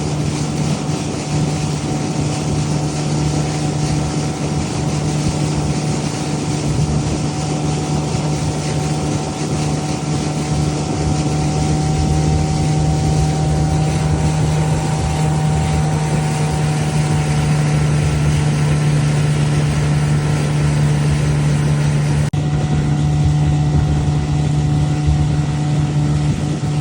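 An old boat's engine running steadily at a constant speed, a low even hum, over the splash of water and wind noise on the microphone.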